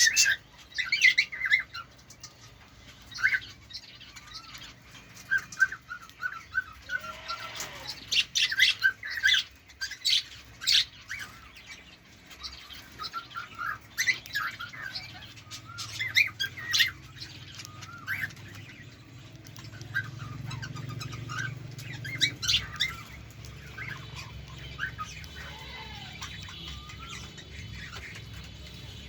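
A pet bird chirping and squawking in many short, separate calls.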